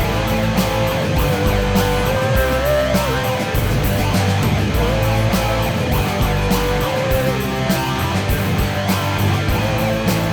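Rock-style worship band music: electric guitars and drums, with a lead line holding long notes over them.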